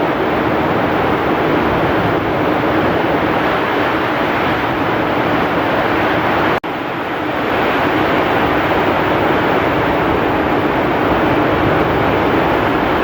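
Heavy rain with strong wind, a steady dense rush. About halfway through it cuts out for an instant, then comes back a little quieter and builds up again.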